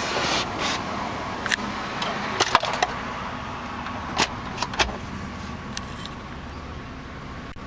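A string of sharp clicks and light knocks from controls and fittings being handled inside the Jeep Liberty's cabin, over the steady low hum of its V6 idling.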